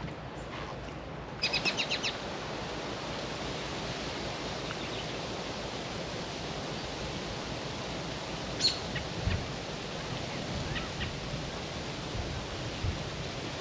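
Steady outdoor background hiss, broken about a second and a half in by a bird's quick run of about six high chirps, with one more short chirp later on.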